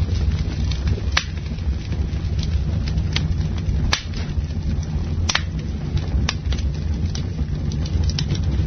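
Campfire burning: a steady low rumble of flames with irregular sharp crackles and pops from the burning wood, a few of them louder than the rest.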